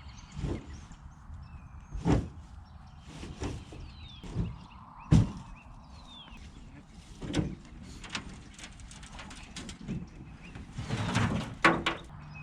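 Irregular knocks and thumps, about ten of them, the strongest about five seconds in and a cluster near the end, with a couple of faint high falling chirps in between.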